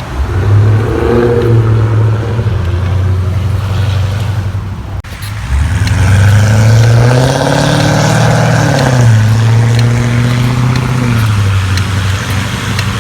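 Dodge Charger SRT's 6.4-litre Hemi V8 running through a custom exhaust: a steady deep burble, then one mild rev about halfway through that rises and falls back within a few seconds.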